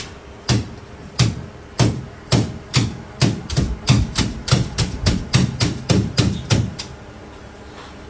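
A series of sharp knocks, each with a low thud, speeding up from about two to about four a second and stopping about seven seconds in.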